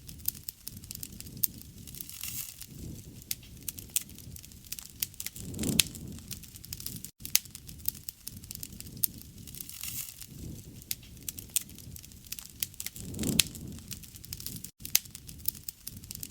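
Campfire crackling and popping: a dense run of sharp snaps, with a soft low rush every few seconds. The sound cuts out for an instant twice.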